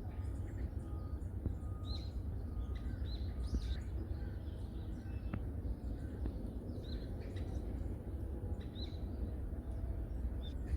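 Forest birds giving short, high chirps scattered every second or two, over a steady low rumble.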